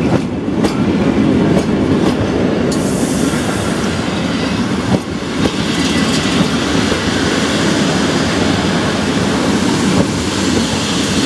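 PKP Intercity passenger coaches rolling past close by: a steady rumble with wheels clacking over rail joints. A high hiss joins about three seconds in.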